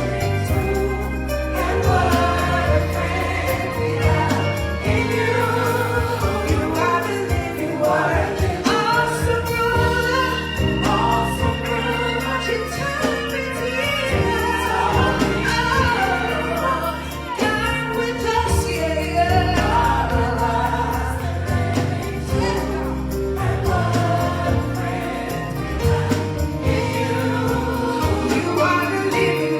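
Gospel choir singing with band accompaniment, steady bass underneath.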